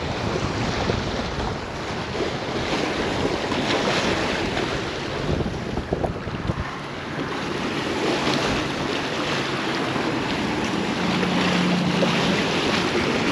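Strong wind blowing across the microphone as a steady rushing noise, with choppy water lapping underneath.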